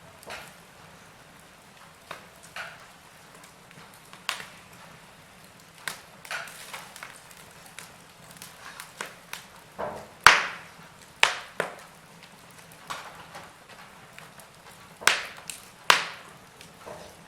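Burning logs in a fireplace crackling, with irregular sharp pops over a faint steady hiss. The loudest pop comes about ten seconds in, with two more strong ones near the end.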